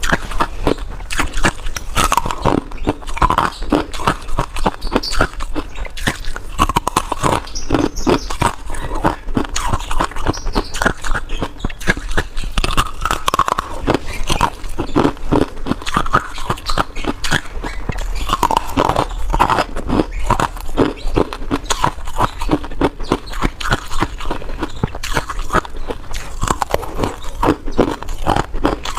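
Freezer frost ice being bitten and chewed close to the microphone: a dense, unbroken run of crunches and crackles, several a second.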